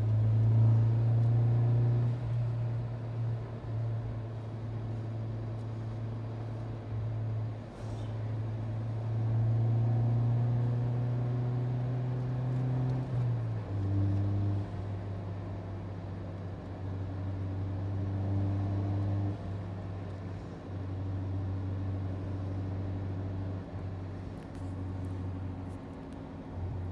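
Turbocharged, tuned MINI Cooper engine heard from inside the cabin, running steadily at track cruising pace, with its pitch stepping down about halfway through.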